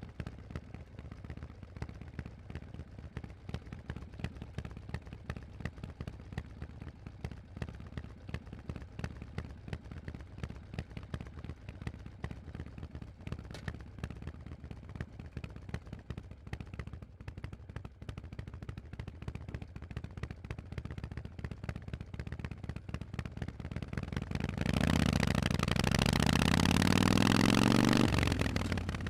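Harley-Davidson Forty-Eight's 1200 cc V-twin through Vance & Hines exhausts idling with a fast, uneven popping beat. About 24 seconds in it is throttled up and pulls away loudly, its pitch dipping and then climbing, with a brief dip near the end as it shifts gear.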